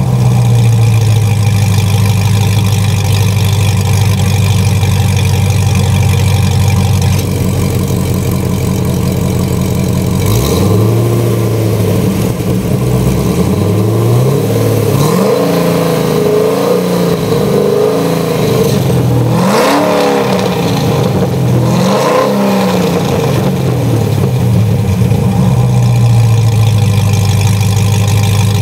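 Corvette C6 Z06's 7.0-litre LS7 V8 on Melrose long-tube headers and Billy Boat Fusion mufflers, idling steadily, then blipped through a quick series of revs that rise and fall from about ten seconds in, settling back to idle near the end.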